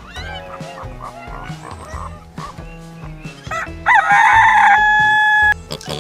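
A rooster crows once, loudly, starting about four seconds in and lasting about a second and a half, over background music with a repeating low beat.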